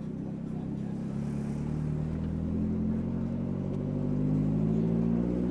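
A car engine pulling away under gentle acceleration, its pitch rising slowly and steadily as the revs climb.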